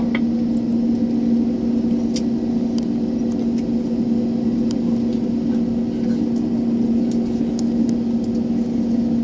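Airliner cabin noise while taxiing after landing: a steady hum and rush from the engines and air system, with a few faint clicks.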